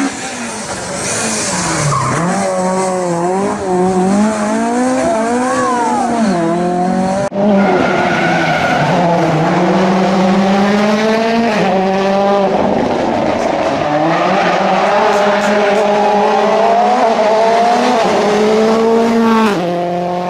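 Turbocharged rally car engines at full throttle, the revs climbing and then dropping sharply again and again as the driver shifts and lifts for corners. The engine note changes abruptly about seven seconds in as a different car takes over.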